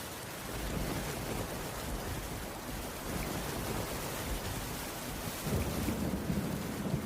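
Heavy rain falling steadily on a wooden cabin roof, with a low rumble underneath that swells about five seconds in.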